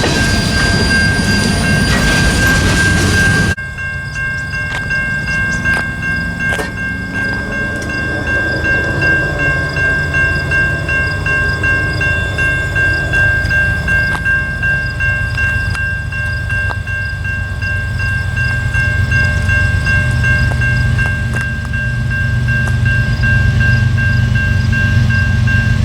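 Freight train rolling past close by, which cuts off suddenly a few seconds in. Then comes a low diesel locomotive rumble under a steady high ringing tone, the rumble growing louder near the end.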